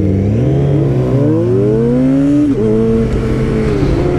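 Sport motorcycle engine accelerating hard. The revs climb for about two and a half seconds, drop sharply at an upshift, then hold fairly steady, with another drop near the end.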